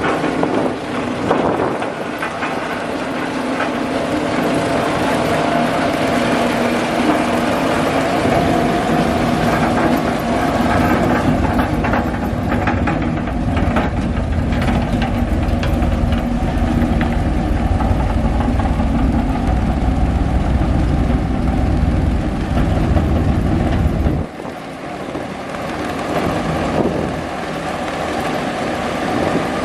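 Diesel engine of heavy construction machinery running steadily, with a deep rumble that builds and then cuts off suddenly about four-fifths of the way through.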